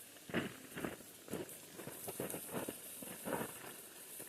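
Steady hiss of a waterfall's rushing water, with irregular light knocks and rustles close by.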